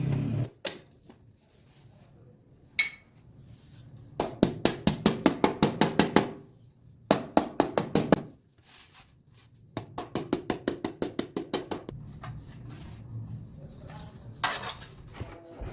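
Rapid runs of sharp taps or knocks, about six a second, in three bursts of one to two seconds each, with a few single clicks between them.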